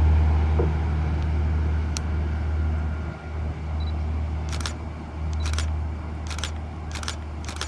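Five camera shutter clicks in quick succession in the second half, with a single click about two seconds in, over the steady low hum of a generator running.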